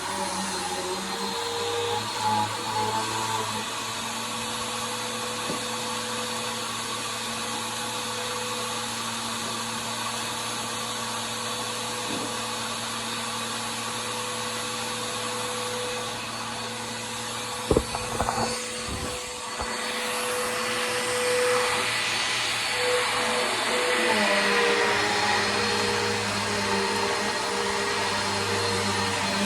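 Bissell Power Force vacuum cleaner running steadily. A little past halfway there is a sharp knock and a brief clatter, and after that the vacuum sounds a little louder and brighter.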